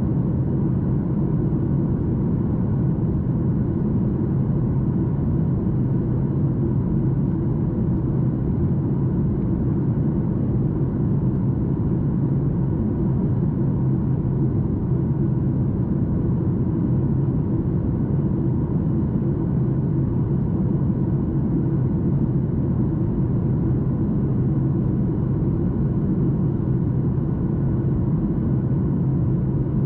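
Steady cabin roar inside a Boeing 737 MAX 8 airliner, its CFM LEAP-1B turbofans running evenly with a deep rumble and a few faint steady tones on top.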